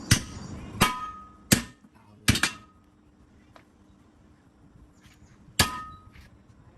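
Hammer blows on metal during tractor tyre work: four sharp strikes about three-quarters of a second apart, several leaving a brief metallic ring, then a pause and one more strike about five and a half seconds in.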